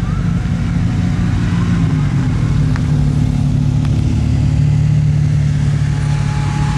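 Car engine running steadily, its pitch dropping slightly about two seconds in and then holding even.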